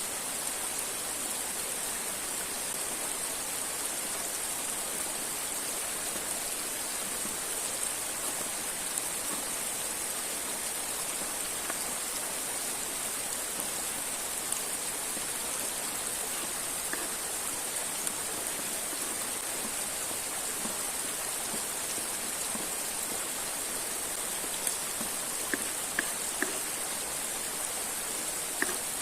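River and waterfall water rushing steadily, with a constant high hiss over it. A few sharp clicks come near the end.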